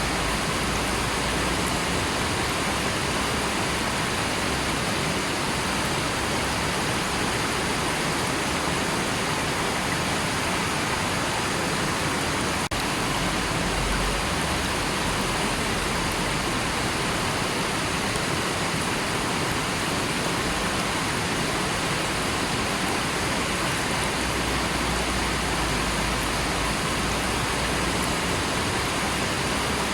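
River water rushing, a steady, even noise with no change in level.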